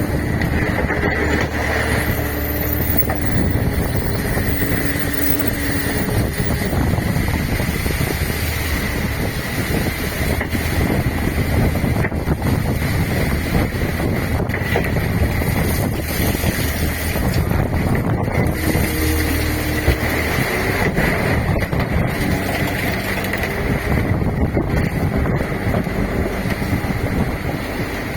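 Fishing boat's engine running steadily, with strong wind buffeting the microphone.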